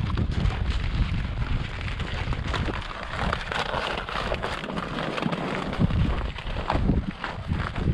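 Strong wind blowing across the microphone in a snowstorm: a heavy low rumble with gusty rushing noise and crackles.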